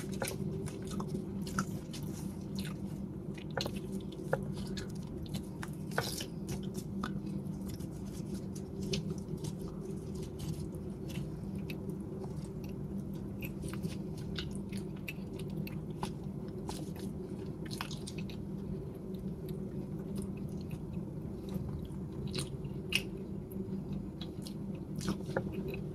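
Close-miked eating of a sticky glutinous-rice cake (bánh gai): biting and chewing, with many small wet mouth clicks scattered throughout, over a steady low hum.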